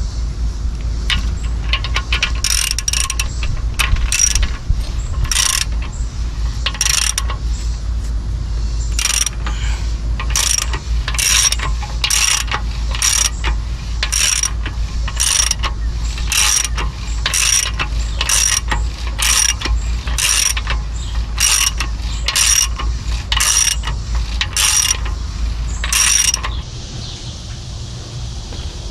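Hand ratchet wrench worked in repeated strokes, a short burst of clicking about once a second, as a fastener is turned. A steady low hum runs underneath and drops away with the last stroke near the end.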